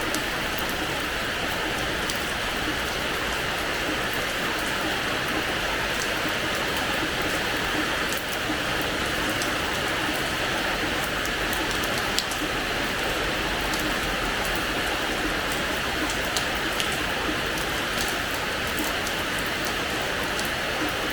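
Steady rain falling on a terrace floor: a constant hiss with scattered sharp drop ticks.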